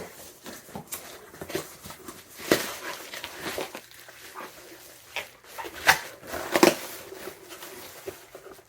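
Packaging being handled and opened: rustling and crinkling with scattered knocks and clicks, the loudest knocks about two and a half seconds in and twice around six seconds in.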